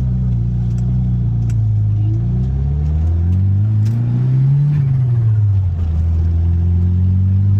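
1995 Mitsubishi Eclipse GSX's turbocharged 4G63 inline-four running under way. The engine note rises for a second or two about halfway through, drops back, then holds steady.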